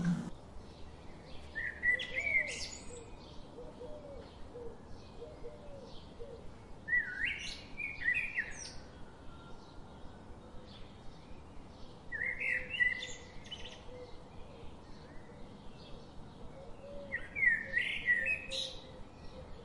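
Birds calling: a short bright chirping phrase repeats four times, about every five seconds, with small quick chirps in between.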